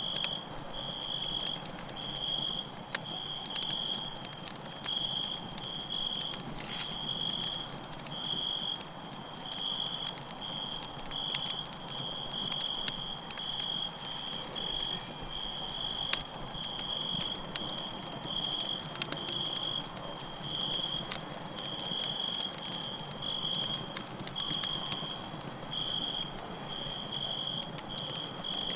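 Campfire crackling, with scattered sharp pops of burning wood, while crickets chirp in a steady pulsing rhythm of about one chirp a second.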